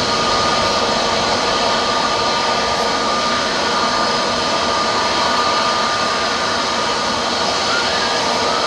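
Jet airliner engines running: a steady loud rush of noise with a constant high whine through it.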